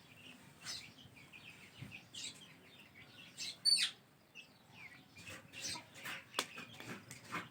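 Ringneck parrot chicks giving short, high chirps and squeaks at irregular intervals while being hand-fed, with one louder call a little past halfway.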